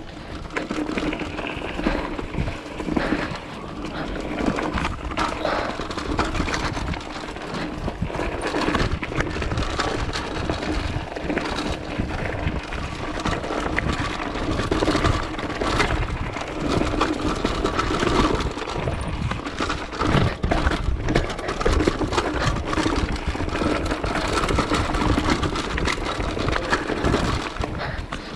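Continuous rough-trail riding noise: tyres crunching and clattering over rocks and dirt, with frequent knocks and rattles and a faint steady hum underneath.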